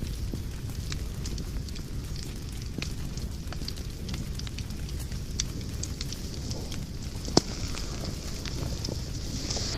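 Wood fire burning in a fireplace: a steady low rumble of the flames with scattered crackles, and one louder pop about seven seconds in.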